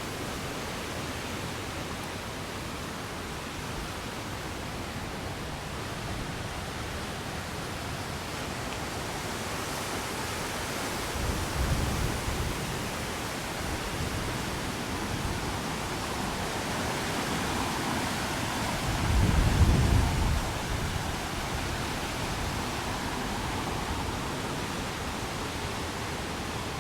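Strong wind blowing steadily, buffeting the microphone with a low rumble, with two stronger gusts, one about halfway through and a louder one about two-thirds of the way in.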